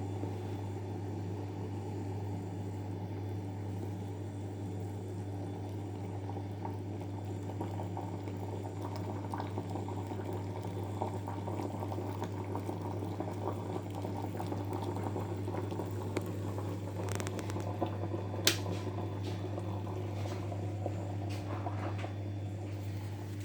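Electric cezve heating coffee toward the boil: a steady low hum under a continuous bubbling hiss, with scattered sharp ticks and pops that come more often in the second half.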